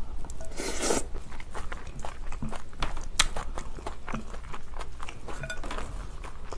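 Close-up chewing of a mouthful of napa cabbage kimchi with rice: a steady run of small wet crunches and clicks. A couple of sharper clicks about three seconds in come from a metal spoon against a glass bowl as more rice is mixed.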